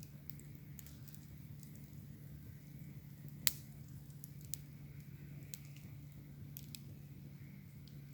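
Bonfire crackling, with scattered sharp pops, the loudest about three and a half seconds in, over a steady low hum.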